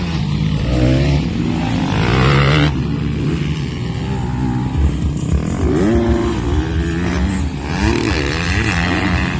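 Motocross bikes' engines revving hard as they ride the track, several at once, their pitch repeatedly rising and falling.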